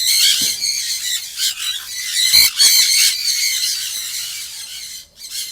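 Sun conures screeching, many shrill calls overlapping in a really loud chorus that thins out near the end.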